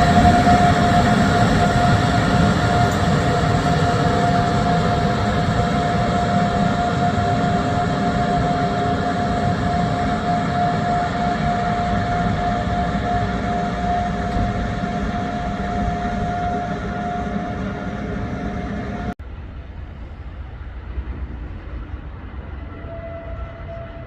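A train running and slowly fading as it moves away, a steady whining tone over its rumble. About three-quarters of the way through the sound cuts off suddenly to a much quieter low rumble, with a faint tone coming back near the end.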